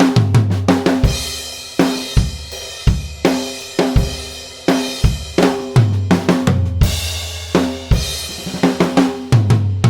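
Yamaha Maple Custom drum kit being played: a run of kick drum, snare and tom hits with ringing tom tones and crashing cymbals, with quick fills near the start, past the middle and near the end.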